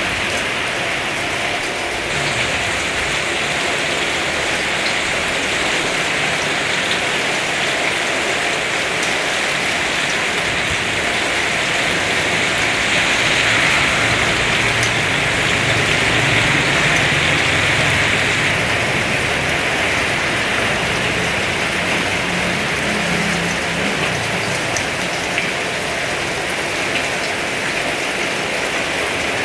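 Heavy rain pouring steadily, swelling louder about halfway through, with a low rumble underneath.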